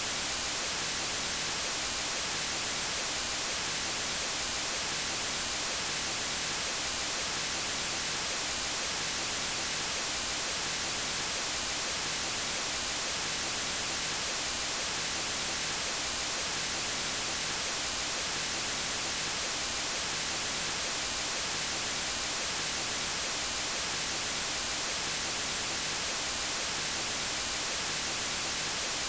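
Steady white noise: an even, unchanging hiss spread across all pitches, strongest in the highs.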